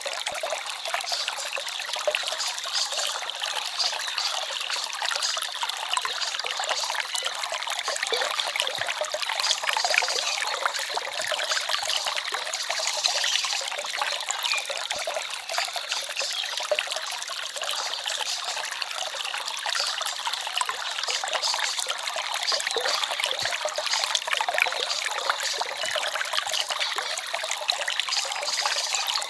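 Small forest stream trickling and babbling over stones, a steady even rush of water.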